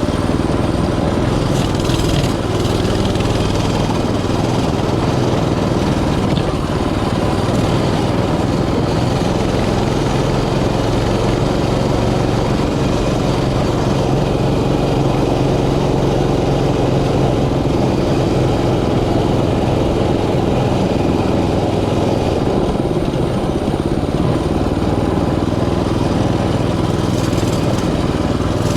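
Small single-cylinder mini bike engine running steadily, its pitch holding level with no big revs.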